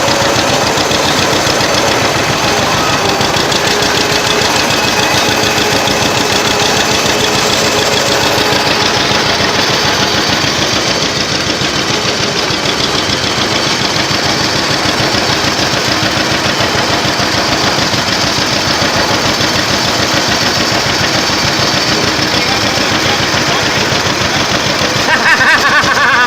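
Old tractor engine running steadily, with a fast, even firing beat.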